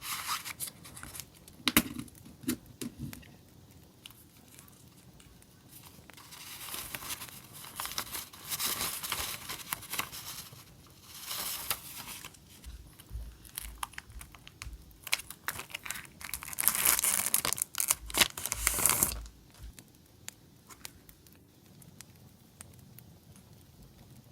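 Stationery packaging being torn open and crinkled by hand. There are several stretches of rustling and tearing with sharp clicks between them, and the longest and loudest comes near the end.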